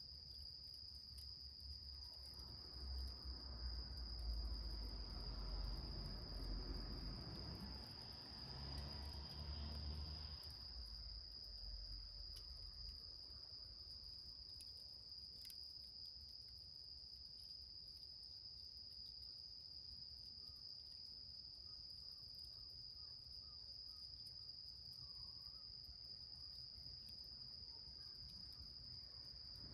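Crickets trilling, one steady high-pitched unbroken trill. A low rumble swells in a couple of seconds in and dies away after about ten seconds.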